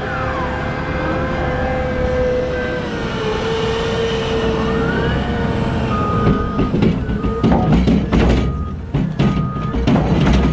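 Heavy diesel machinery running with a steady whine that dips slightly in pitch about three seconds in. A reversing alarm starts beeping about once a second about six seconds in, over a run of loud knocks and clatters in the second half.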